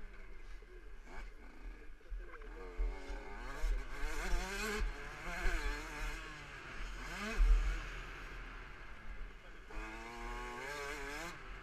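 KTM 65 SX's small two-stroke single-cylinder engine revving up and down repeatedly as the bike is ridden around a motocross track, with low thumps and rumble on the microphone, the loudest about seven and a half seconds in.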